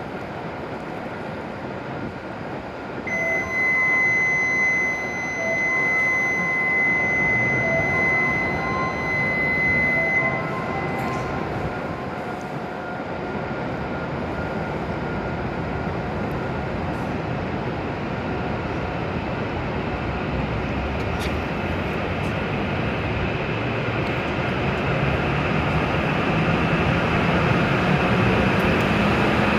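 A station departure signal sounds as a steady high electronic tone with a pulsing lower tone for about seven seconds. Then a W7 series Shinkansen train pulls out, its noise building and a low motor hum rising in pitch as it picks up speed near the end.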